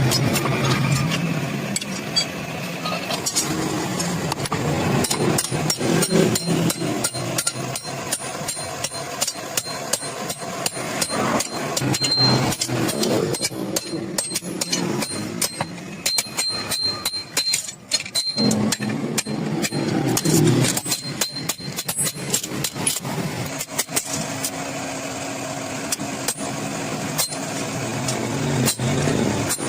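Repeated hammer blows on iron, irregular strikes throughout, over a steady background hum.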